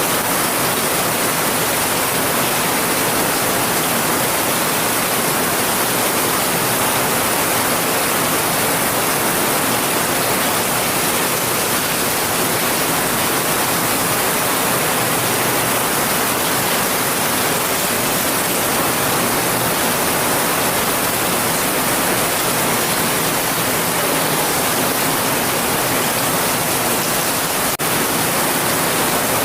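Heavy rain falling steadily as an even, continuous hiss without distinct drops, with a brief dip in level near the end.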